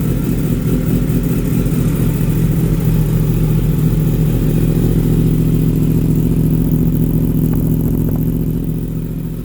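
2016 Yamaha R1's crossplane inline-four running steadily at idle through a full aftermarket exhaust system, level easing slightly near the end.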